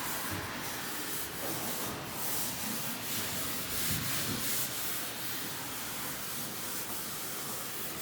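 Steady rubbing and scrubbing of a cleaning cloth or sponge over a surface, back and forth.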